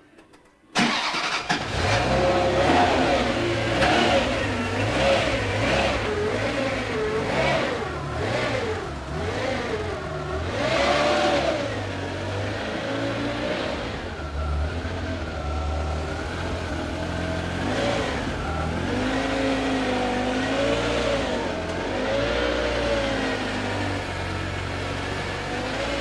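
Ferrari Mondial T Cabriolet's 3.4-litre V8 starting about a second in, then revved up and down repeatedly and running on more steadily as the car pulls away, with a few more blips of the throttle later.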